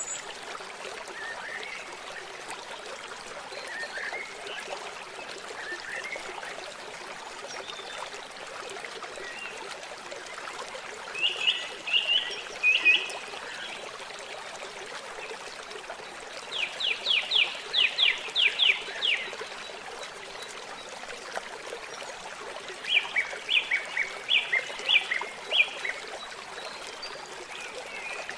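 Steady trickling and lapping water at a lake shore, with a bird calling in three loud runs of rapid, repeated high chirps.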